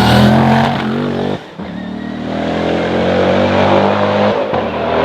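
Hillclimb racing car engine at high revs under load. The note cuts off sharply about a second and a half in, comes back and climbs slowly, then breaks briefly again near the end.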